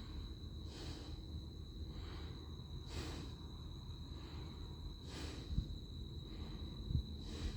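A person breathing close to the microphone, about one soft breath every two seconds, over a steady thin high whine and a low rumble.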